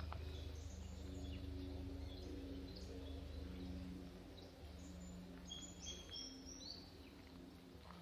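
Birds calling in bushland: scattered short, high whistled notes, in a quick run of stepped notes near the end, over a faint low steady hum.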